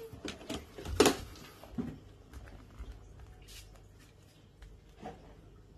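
Handling noises: a quick run of knocks and rustles, the loudest about a second in, then a few faint clicks.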